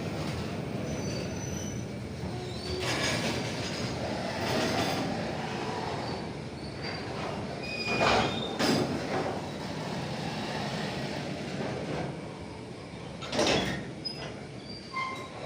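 Railway train running along the track: a steady rumble of the cars with brief high-pitched wheel squeals scattered through it, and louder surges about halfway and again near the end.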